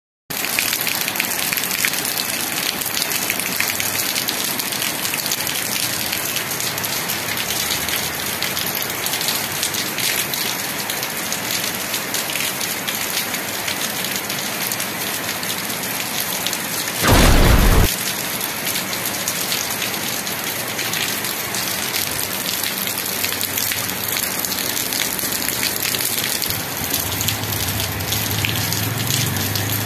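Steady rain falling on wet ground and roofs, an even hiss. Just past halfway comes one sudden, much louder burst, under a second long, that cuts off as abruptly as it starts.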